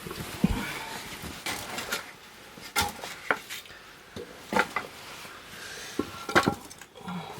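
Firewood in a wood-fired bath's firebox: irregular sharp cracks and knocks, some with a brief metallic ring, about four loud ones in a few seconds.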